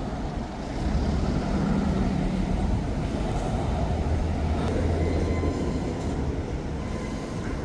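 A vehicle engine running nearby, a low steady rumble that swells about a second in and eases off after about five seconds.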